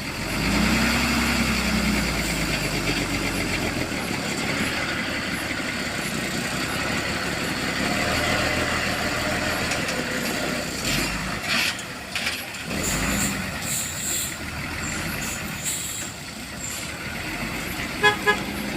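Heavy road traffic on a steep climb, with truck engines running under load and a few brief horn toots.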